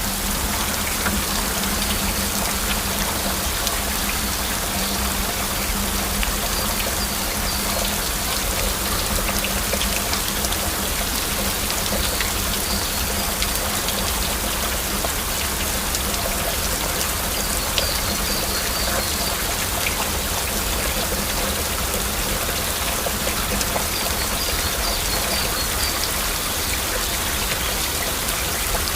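Steady heavy rain falling, with individual drops ticking through a continuous hiss.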